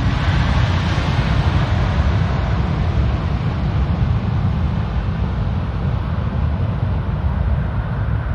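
Jet airliner engine noise with a deep rumble as the plane passes on approach; the higher part of the sound slowly fades as it moves away.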